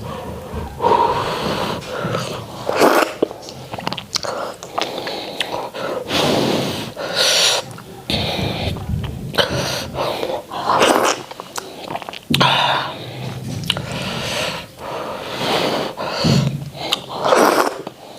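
Messy open-mouthed eating close to the microphone: wet smacking and chewing of starch (a sticky cassava swallow) and white soup, in irregular bursts.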